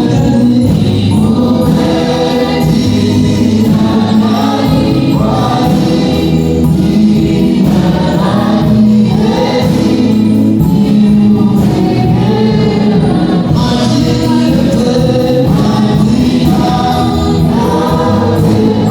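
Choir singing gospel music with a steady instrumental backing.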